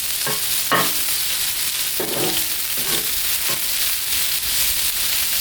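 Cubed pork loin searing at high heat on a Blackstone flat-top griddle, with a steady sizzle. A few short scraping strokes sound over it.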